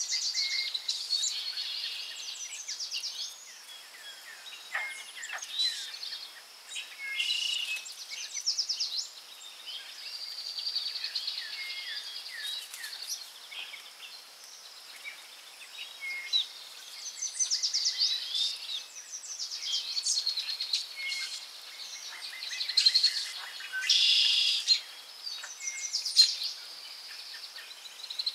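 Forest birdsong: several birds chirping and trilling over one another, with a faint steady background hiss.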